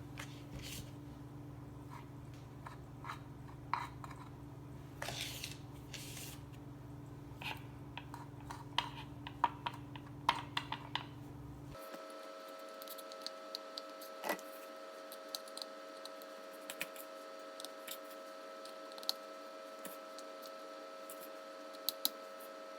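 Scattered small clicks, taps and scrapes of a spoon scooping crumbly cookie dough into a metal mini muffin tin and pressing it down, over a steady low hum. About twelve seconds in the background hum changes abruptly and the clicks continue, one sharper knock a couple of seconds later.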